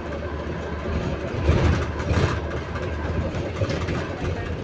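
Cabin noise of a moving London double-decker bus: a steady low engine and running drone with rattling, and a couple of louder bumps about one and a half and two seconds in. It carries the odd noise the bus makes as it moves, of unknown cause.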